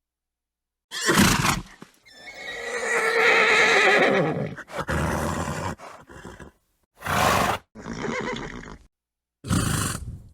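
A horse neighing and snorting in separate short takes broken by dead silence: a short snort, then a long wavering whinny about two seconds in, followed by several shorter snorts and blows.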